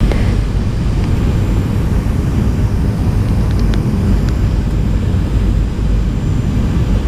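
Boeing 737 jet airliner's engines and airflow making a steady, loud low rumble, with a few faint clicks around the middle.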